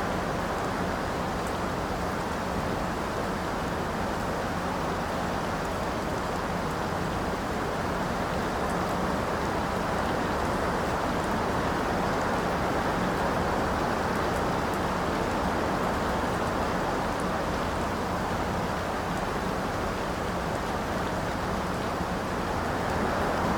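Steady rainfall, an even rushing hiss with no breaks.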